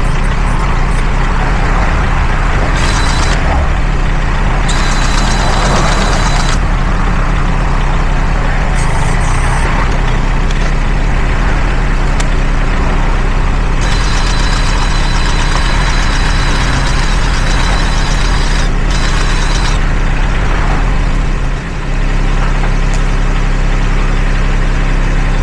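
An engine idling steadily, with several stretches of added hiss on top, the longest about six seconds. Its note dips briefly near the end.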